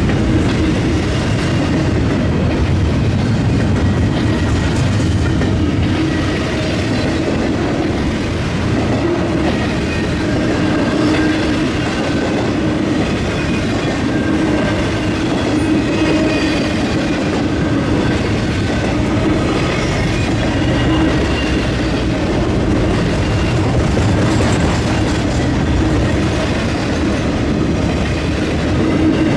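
Freight train cars rolling steadily past, their wheels clattering over the rails and a railroad diamond crossing, with faint intermittent wheel squeal.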